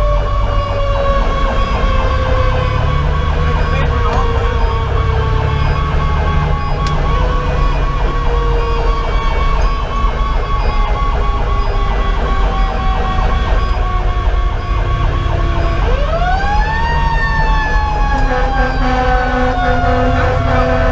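Fire engine sirens running together, heard from the cab. An electronic siren yelps at about four cycles a second, while a Federal Q2B mechanical siren coasts slowly down in pitch, winds sharply back up about three-quarters of the way in, then slowly falls again. A diesel engine rumbles underneath.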